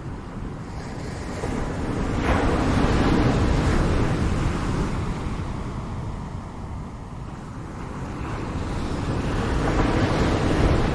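Ocean waves breaking and washing ashore, two waves swelling and falling back, the second cresting near the end, with low wind rumble on the microphone.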